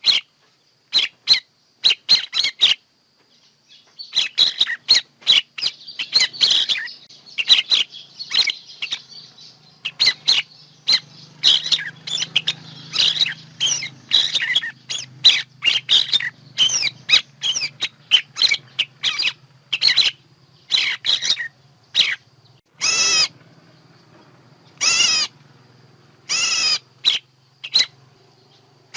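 Songbirds chirping and calling in quick, overlapping series of short, sharp notes, with a few longer, harsher calls near the end; this is a bird-song lure recording for trapping. A faint low hum runs underneath for most of the stretch.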